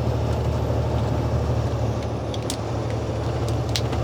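Steady low drone of a semi-truck's diesel engine and road noise inside the cab while driving, with a few faint clicks.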